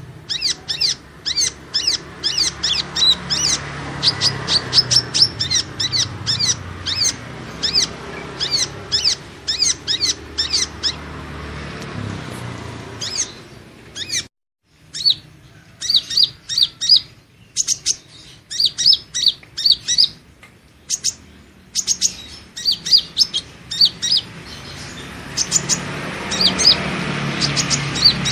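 A small sunbird (Indonesian 'kolibri ninja') calling in rapid runs of short, high chirps, used as a trapping lure call. The chirping breaks off for a moment about halfway through, then starts again.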